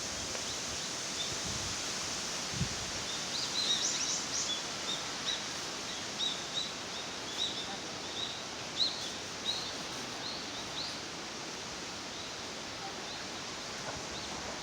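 Small songbirds chirping: a run of short, high notes starting a few seconds in and dying away about two-thirds of the way through, over a steady outdoor background hiss.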